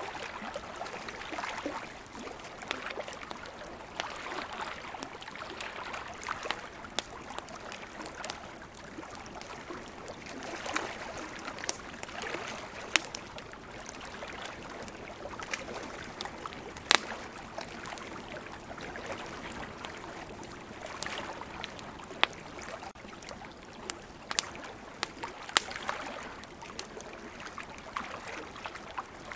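Wood campfire crackling, with irregular sharp pops, the loudest about two-thirds of the way through, over a steady wash of ocean waves that swells and ebbs.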